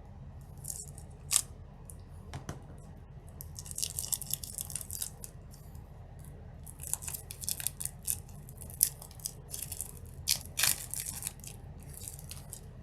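A brick of trading cards being unwrapped and handled: packaging tearing and crinkling, with cards sliding and rustling in quick clusters and scattered sharp clicks.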